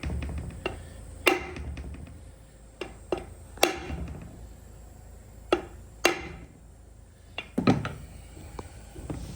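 Tools and metal parts being worked by hand during a truck steering column overhaul: about five sharp knocks at irregular intervals, with lighter taps and clicks between them.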